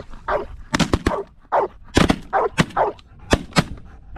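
A volley of shotgun shots, about seven sharp blasts over roughly three seconds from several hunters firing on a flock of snow geese, with short calls or barks in between.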